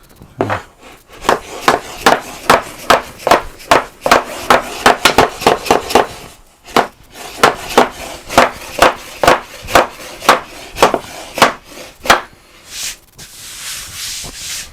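A hammer tapping wooden drawer-door pieces together at a slotted joint: a long run of sharp knocks, about two to three a second, with a short pause partway through. A brief rushing scrape follows near the end.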